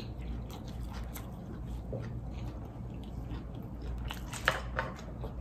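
Mouth sounds of chewing a bite of fried chicken sandwich: soft wet clicks and smacks, with a couple of sharper clicks about four and a half seconds in.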